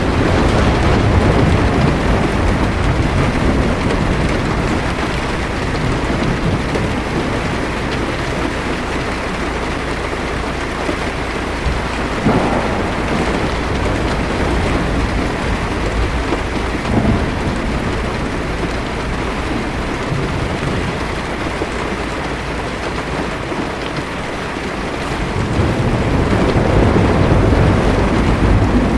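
Heavy rain drumming steadily on a car's windshield and roof, heard from inside the car. Thunder rumbles low at the start and again near the end, with a couple of sharper cracks in between.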